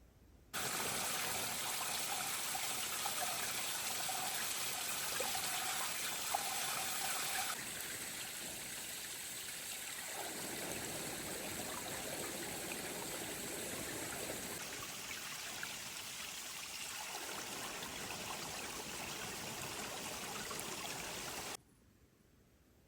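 Steady rushing of running water that starts and stops abruptly, with sudden changes in tone about seven and ten seconds in.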